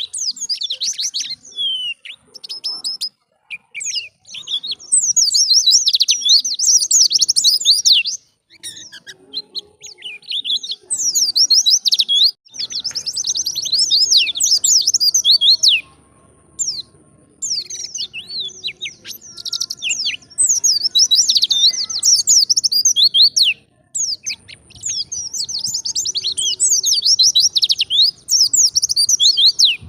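White-eye (pleci) singing in long, fast runs of high, twittering chirps. Each run lasts several seconds, and short pauses come about three, eight, sixteen and twenty-four seconds in.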